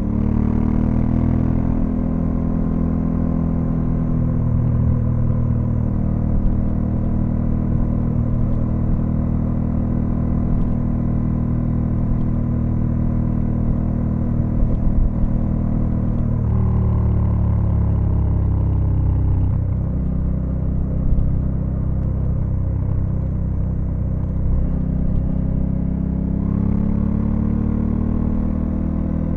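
Honda Africa Twin CRF1100L's 1084 cc parallel-twin engine running under way. The engine note changes suddenly a little past halfway, then falls in pitch for a few seconds before rising again near the end.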